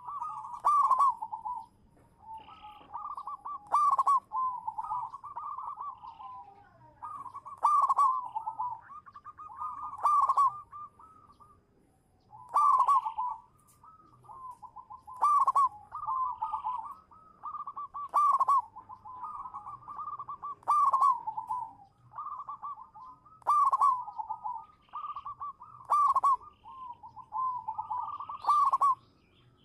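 Zebra dove (perkutut) singing, its rapid trilled cooing phrases repeated over and over, about one every two and a half seconds.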